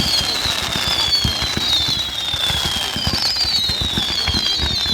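Fireworks going off: a series of whistling fireworks, each whistle falling in pitch over about a second and a half and overlapping the next, over a dense run of low booms and bangs.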